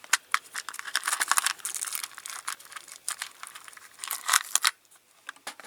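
Rummaging through a container of small spare toy wheels and parts: a quick run of clicks, rattles and rustling that stops with a few faint clicks near the end.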